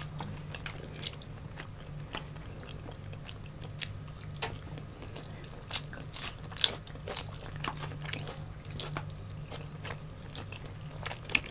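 Close-miked chewing and wet mouth clicks from people eating with their hands, scattered irregularly over a low steady hum.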